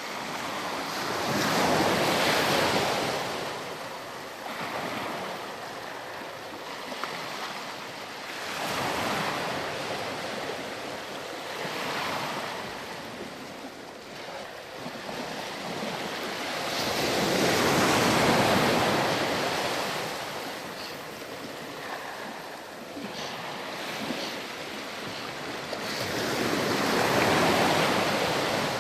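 Ocean surf washing up and back on a sandy beach, a noisy rush that swells and fades every few seconds, with the biggest waves breaking near the start, in the middle and near the end.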